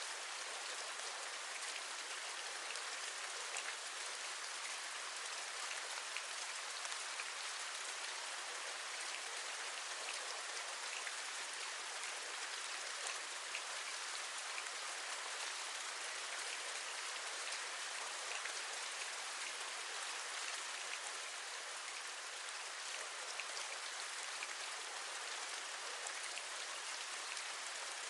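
Steady rain: a dense, even patter of drops with faint scattered ticks, holding constant without any separate louder event.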